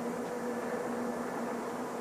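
Steady drone with a low hum under an even hiss: the Rio Grande Ski Train's diesel passenger train running past in the distance, heard through old camcorder tape noise.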